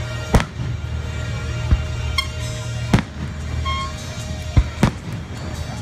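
Aerial firework shells bursting overhead: five sharp bangs, the first about a third of a second in and the last two close together near the end.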